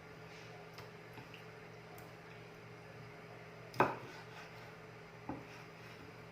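Knife chopping chicken on a cutting board: two knocks about a second and a half apart, the first much louder, with a few faint clicks, over a faint steady hum.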